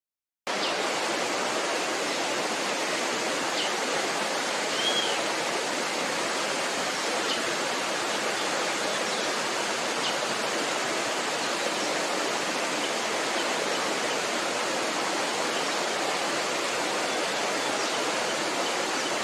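Steady rushing noise like running water, cutting in abruptly about half a second in, with a few faint, short, high chirps over it in the first half.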